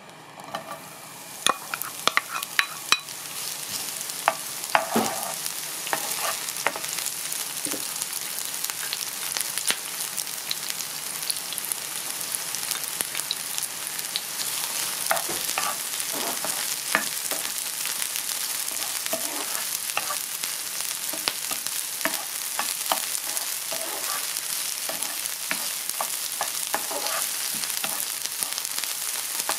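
Sliced leek and minced garlic sizzling in hot oil in a nonstick frying pan while being stir-fried with a spatula. The sizzle starts about half a second in as they hit the oil, with sharp crackles in the first few seconds, then settles to a steady hiss with scattered small clicks.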